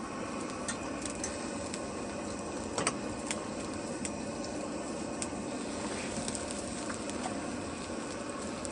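Meat sizzling on a charcoal barbecue grill: a steady hiss with scattered pops and crackles, the sharpest a little under three seconds in.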